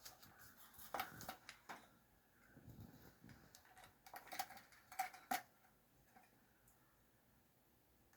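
Faint, irregular clicks and taps of a conure's beak working at a small toy, with a quick run of taps about four to five seconds in.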